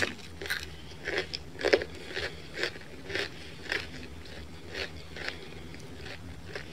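A person chewing a bite of thin-crust pizza close to the microphone, with crunches about twice a second that thin out near the end.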